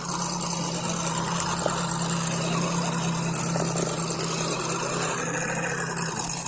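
1:10 scale RC rock crawler's electric motor and gearbox whirring steadily as the truck drives.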